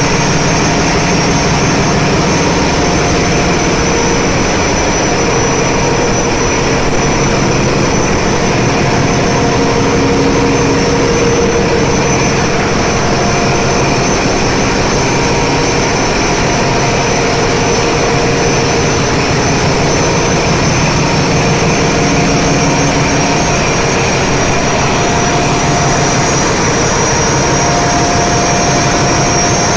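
Ship's engine room machinery running: a loud, steady mechanical din with a high whine held over it throughout.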